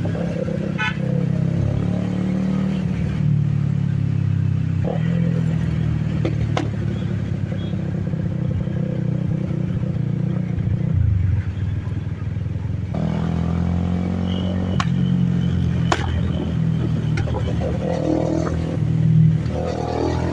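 Benelli TNT 25 motorcycle engine running under way, its pitch shifting as the revs change, with a few short sharp pops over the steady engine note.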